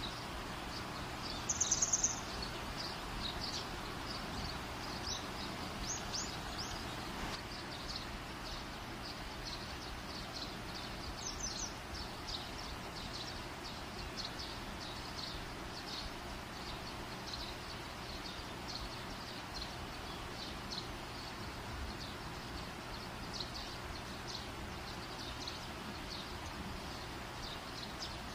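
A small bird chirping over and over, in short high chirps, with a louder brief trill about two seconds in, over a steady low background hum.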